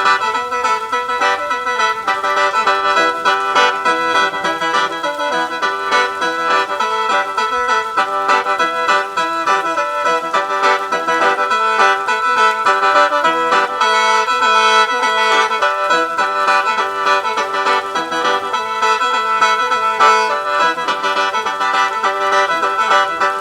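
Khaen, the Lao–Isan bamboo free-reed mouth organ, playing a quick melody over held drone notes.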